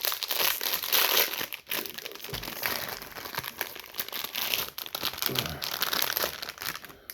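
Plastic snack wrapper around a packaged croissant crinkling as it is handled and opened, loudest in the first couple of seconds.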